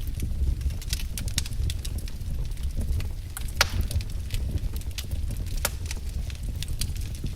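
Wood fire crackling: a steady low rumble with frequent sharp pops and snaps, one louder pop about halfway through.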